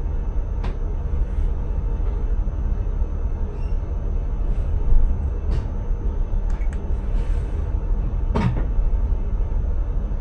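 Intercity train running, heard from the driver's cab: a steady low rumble with a few sharp clicks and knocks, the loudest about eight seconds in.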